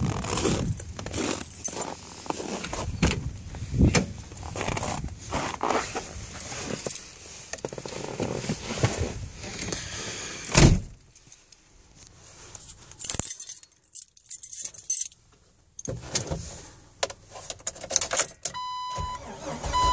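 Car keys jangling and handling noise, with a single loud thump about halfway through. Near the end, the Jeep Wrangler's dashboard warning chime starts beeping about once a second as the key is turned before starting.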